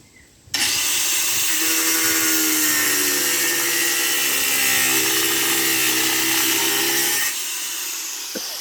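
Electric grinder cutting into a deer-antler knife handle: it starts suddenly about half a second in, a loud steady hiss with a motor whine under it, and eases off a little near the end.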